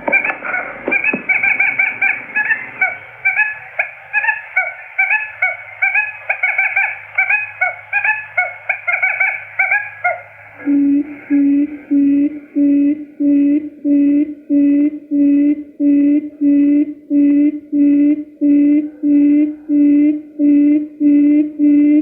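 Recorded quail lure calls. Rapid high chirping runs for about ten seconds, then gives way to a steady series of low hooting notes, nearly two a second, with high chirps over each note.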